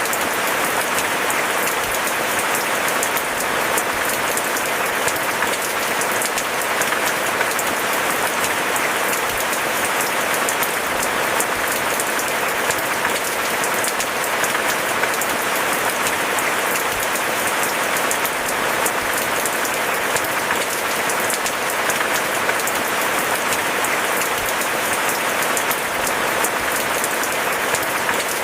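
Steady rain falling, an even hiss of countless drops with no change in strength.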